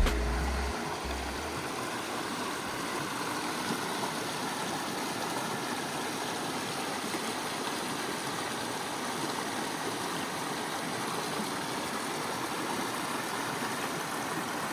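Creek water rushing steadily past, an even rushing noise with no change. A bit of background music fades out in the first second or so.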